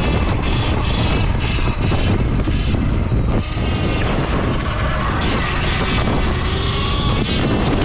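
Steady wind rushing over the microphone of a camera carried on a moving Sur Ron electric dirt bike, with faint whine from the bike in the background.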